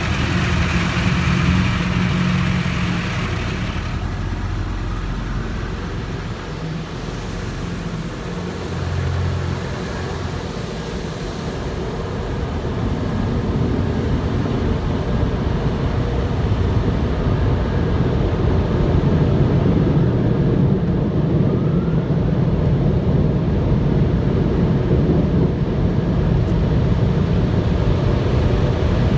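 Automatic drive-through car wash machinery running. It opens with a loud hiss of spray for the first few seconds, then settles into a steady low drone that grows louder partway through.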